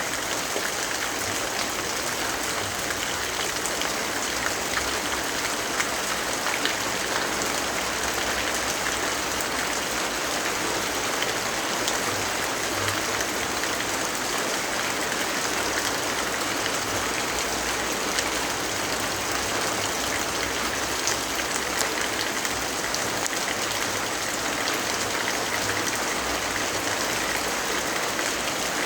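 Steady rainfall: a dense, even hiss of rain with faint scattered ticks of individual drops.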